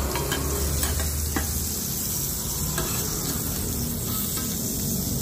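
Hoy tod, a mussel and egg omelette with bean sprouts, sizzling steadily in oil on a wide flat pan, with a few light clicks of the metal spatula in the first half.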